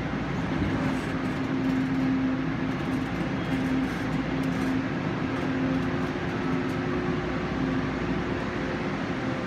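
Passenger train standing at a station platform, its onboard equipment giving a steady hum with a low tone; a second, slightly higher tone joins about halfway through.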